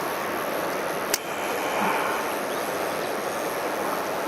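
Steady rush of a mountain stream, with one sharp click about a second in.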